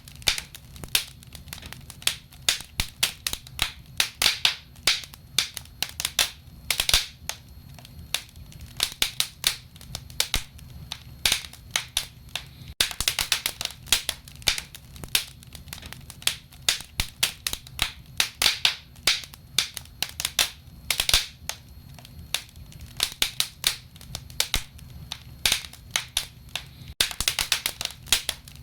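Wood fire in a fireplace crackling: irregular sharp pops and snaps, often several a second, over a low steady rumble of the burning.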